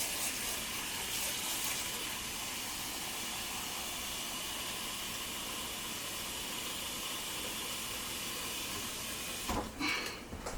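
Hot water running steadily from a tap, an even hiss. It stops about nine and a half seconds in, followed by a few short handling knocks.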